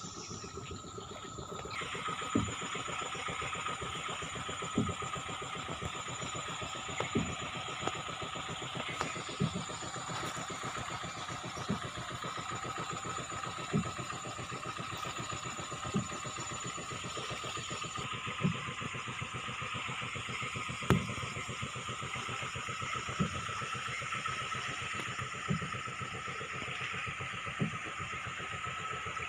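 Motorboat engine running steadily under way, with a sharp thump about every two seconds.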